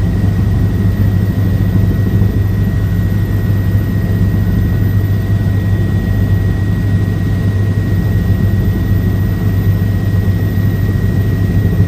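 Helicopter in flight, its engine and rotor making a loud, steady low drone with a thin, steady high whine above it.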